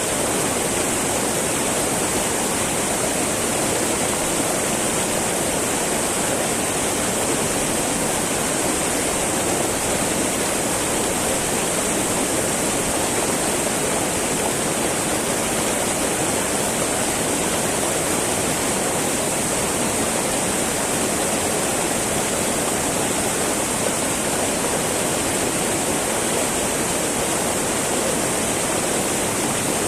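Small mountain stream babbling and rushing over rocks in a steady, even flow.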